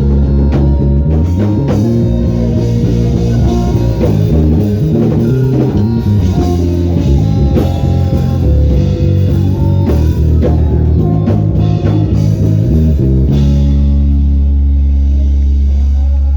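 Band music: guitar and bass lines over a drum kit, moving through quick changing notes, then settling into one long held chord for the last few seconds.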